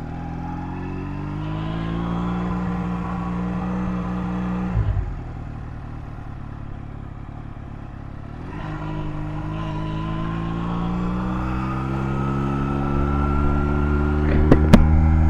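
Honda Rebel 250's air-cooled parallel-twin engine pulling away: the revs climb for about two seconds and hold, drop with a thump about five seconds in, then build steadily again from about nine seconds on. Two sharp clicks near the end.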